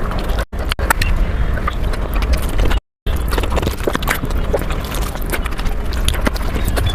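Close-miked chewing and wet mouth smacking while eating fish curry with rice: a dense run of rapid clicks and smacks, broken twice by brief dropouts to silence.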